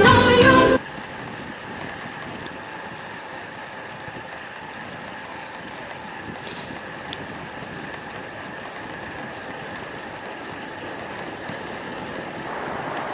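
Music cuts off about a second in, giving way to a steady rush of wind and tyre noise from a road bike ride, picked up by a helmet or bike-mounted action camera.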